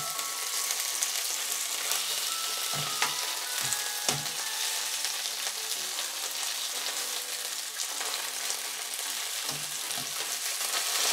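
Salmon pieces sizzling steadily as they pan-fry in oil in a nonstick frying pan. A few light knocks come as the pieces are turned with metal tongs, a cluster of them about three to four seconds in and two more near the end.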